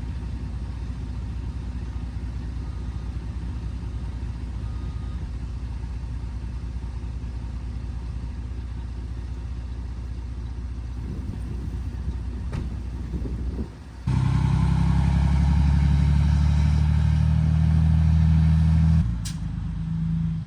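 Farm machine engine running steadily. About 14 s in it suddenly gets louder with a strong steady drone, then drops back about five seconds later.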